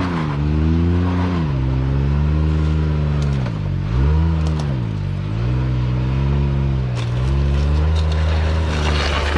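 Side-by-side UTV engine revving up and falling back over and over, about five swells, as the machine works to climb a big rock with its front end sliding.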